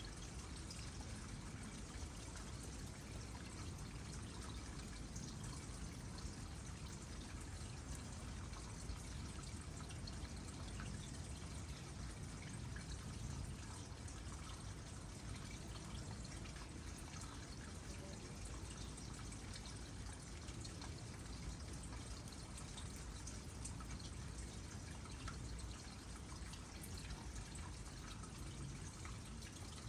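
Water trickling steadily into a small pond, with scattered small drips.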